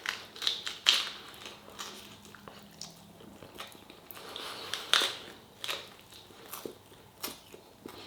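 Close-up eating sounds: a person biting and chewing meat off pork ribs, with irregular wet clicks and crunches, the sharpest about a second in and about five seconds in.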